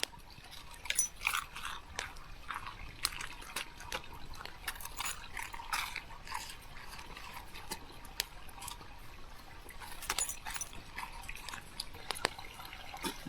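A dog eating, with quiet, irregular wet chewing and lip-smacking clicks.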